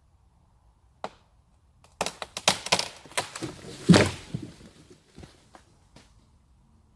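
A wooden branch cracking and breaking, with a quick irregular run of sharp cracks and knocks. A heavy thud about four seconds in is the loudest moment, followed by a few lighter knocks.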